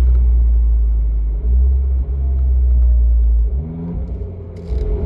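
Abarth 595c's 1.4 turbo four-cylinder running through a Record Monza sports exhaust under way, a deep steady rumble. About three and a half seconds in the rumble drops away with a short rise in pitch, then comes back just before the end.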